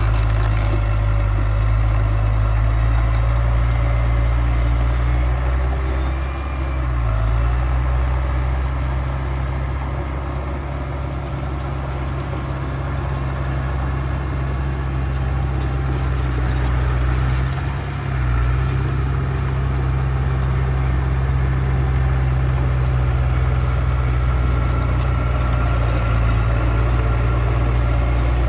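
Heavy diesel engine of earthmoving machinery running steadily with a deep, low hum, briefly dropping in speed about six seconds in and again around eighteen seconds before picking back up.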